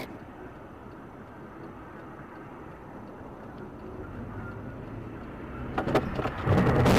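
Car on the road with steady road and engine noise that slowly grows louder, then, about six seconds in, a sudden burst of loud bangs and clatter.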